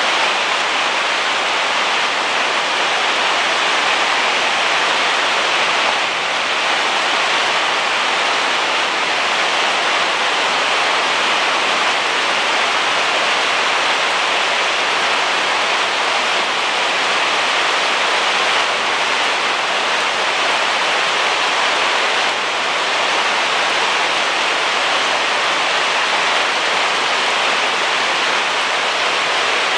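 Heavy rain falling, a steady dense hiss that holds unchanged throughout.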